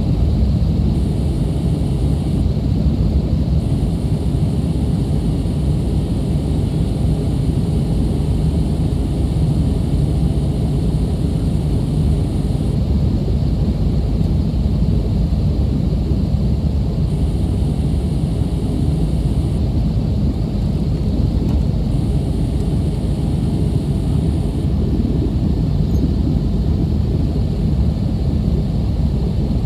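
Steady low roar inside an Airbus A320's passenger cabin: the twin jet engines and airflow under way, with no change in pitch or level.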